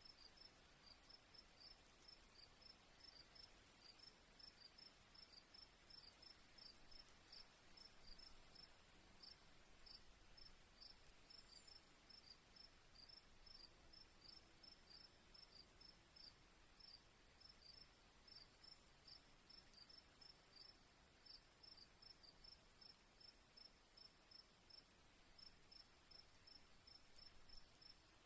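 Faint crickets chirping: one steady, unbroken high-pitched trill, with a quick, even series of short chirps from another insect beneath it.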